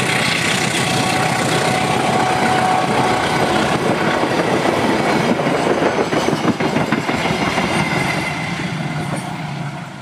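Passenger train rolling across a railway bridge, its wheels clattering over the rail joints. The sound fades away near the end as the train moves off.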